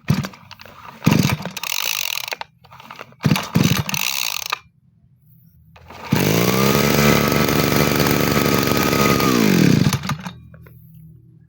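Two-stroke engine of a straight-shaft brush cutter revved in a few short bursts, then held at high revs for about four seconds before dropping back to idle.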